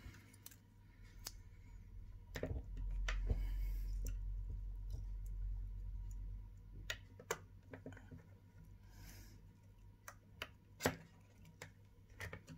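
Scattered light clicks and taps of small parts and tools being handled on a workbench, with a low rumble lasting about four seconds from roughly two and a half seconds in.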